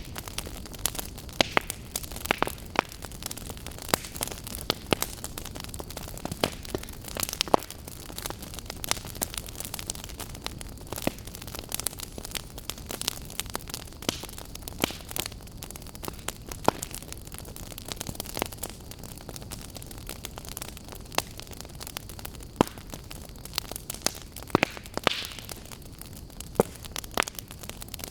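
Burning firewood crackling: frequent sharp pops and snaps at irregular intervals over a steady hiss.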